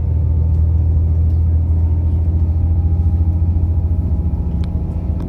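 Passenger train running, heard from inside the carriage: a steady, loud low rumble with a faint thin whine joining about halfway through.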